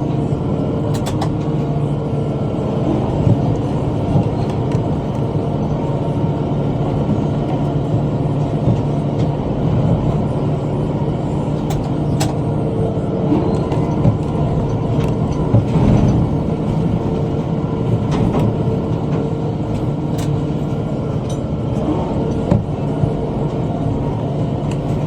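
Tractor engine running steadily under load while pulling a bush hog rotary cutter, with a few brief sharp ticks scattered through.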